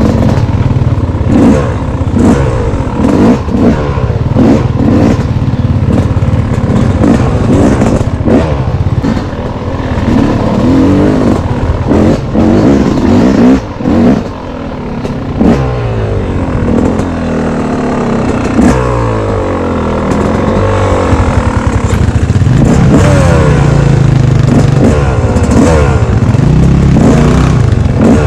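Dirt bike engine running hard on a trail, the revs rising and falling again and again with throttle and gear changes. Frequent short clattering knocks ride over it, and it holds higher, steadier revs in the last few seconds.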